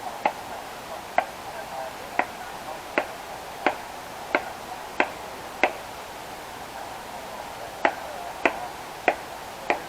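A series of sharp knocks at a steady pace, about one every two-thirds of a second, twelve in all, with a pause of about two seconds midway.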